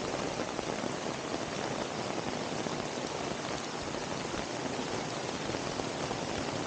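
Steady heavy rain falling, an even hiss of downpour with no let-up.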